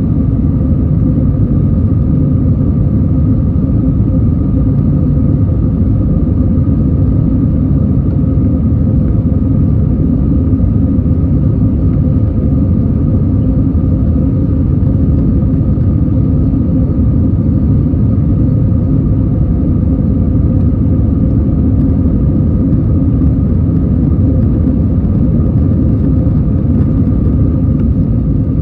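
Airliner's jet engines and airflow as a steady, unchanging rumble with a faint steady hum over it.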